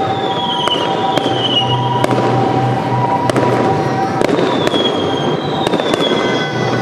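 Aerial fireworks going off: a rapid, continuous run of bangs and crackling, with whistling tones held and slowly falling over it.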